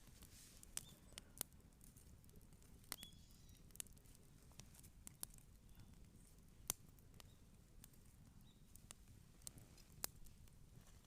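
Wood campfire crackling: scattered, irregular sharp pops and snaps over a low steady rumble, the loudest snap a little past the middle. A brief faint high chirp sounds about three seconds in.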